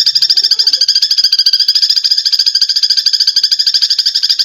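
Eurasian tree sparrows chattering in a fight: a continuous, rapid, even run of short, harsh chirps, about a dozen a second.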